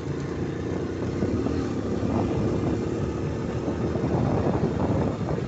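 Honda Pop 100 motorcycle's small single-cylinder four-stroke engine running steadily while it is ridden, with wind noise on the microphone. From about four seconds in, the sound turns rougher and choppier.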